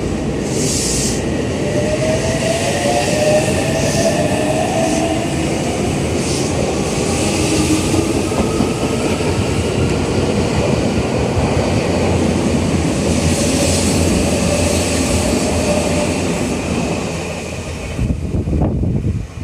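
Odakyu 8000-series electric train (set 8556F) pulling out of the station. The traction motors whine, rising in pitch in steps as it accelerates, over steady wheel-on-rail rumble, and the noise falls away near the end as it leaves.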